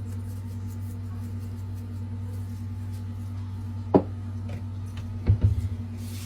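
Steady low hum, with a single sharp knock about four seconds in and a short rattling clatter of knocks just after five seconds.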